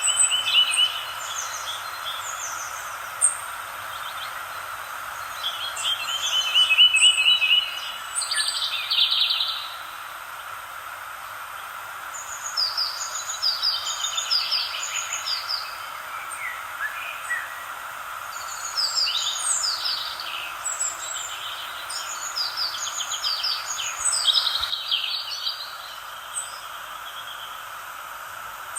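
Songbirds singing in bursts of quick, repeated chirps and trills, over a steady background hiss.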